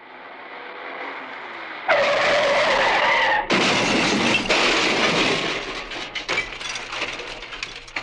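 Movie car-crash sound effects. A rising rush of noise breaks into screeching tyres about two seconds in, followed by a loud crash with breaking glass, then scattered clattering and tinkling debris.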